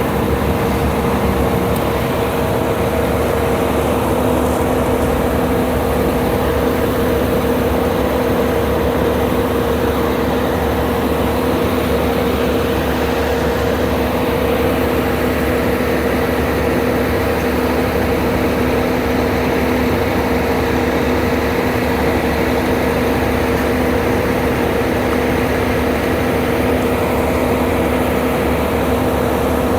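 Heavy engine of a concrete mixer truck or pumping machine running steadily at a constant speed, with an even hum that does not change.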